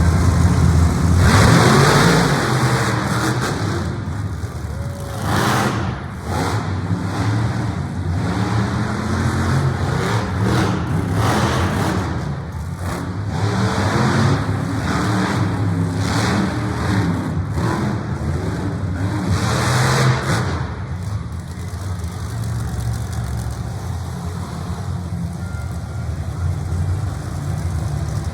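Monster truck engine running loud with repeated throttle surges every few seconds, its low drone swelling and falling back over and over.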